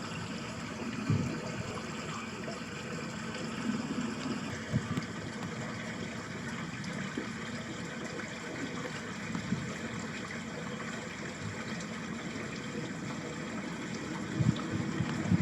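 Water running in a small ditch channel: a steady rush with a few short low thumps.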